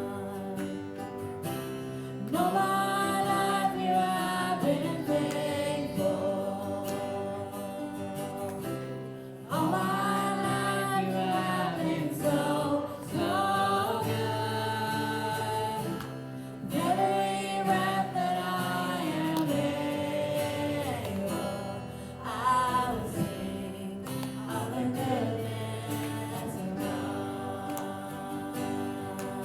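Gospel song: sung phrases with long held notes over a steady instrumental backing.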